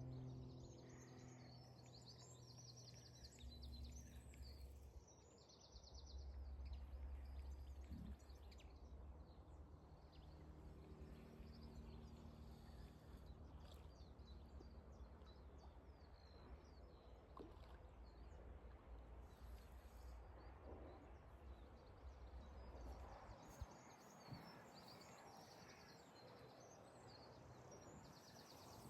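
Birds singing in short chirping phrases in the first few seconds and again near the end, over a low, steady rumble.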